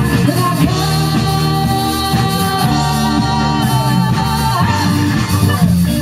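Rock band playing, with a singer holding one long note through most of it.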